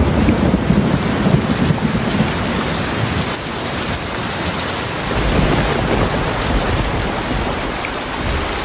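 Heavy rain falling steadily, with low thunder rumbling that starts suddenly at the outset, fades after about three seconds and swells again midway.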